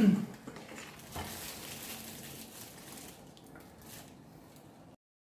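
Soft squishing and handling sounds of ground-meat filling being spooned and pressed into raw squid, with a few light clicks, after a brief loud low sound at the very start; it cuts off abruptly near the end.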